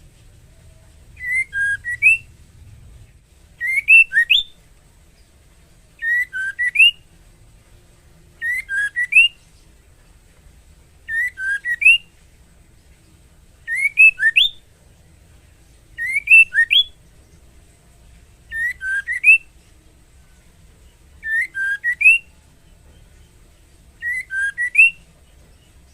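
Female white-rumped shama giving her mating call to a male: a short phrase of a few quick, rising whistled notes, repeated the same way about every two and a half seconds, ten times.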